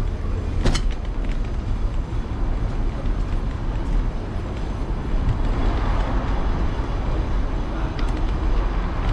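Ride noise from a handlebar-mounted camera on an electric scooter moving through city streets: steady low wind rumble on the microphone with street traffic beneath it. There is a sharp knock about a second in.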